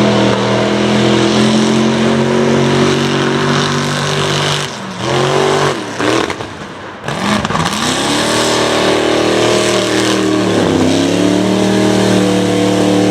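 Mega truck engine at high revs and full throttle. The pitch drops and climbs back again several times as the truck pulls through the mud.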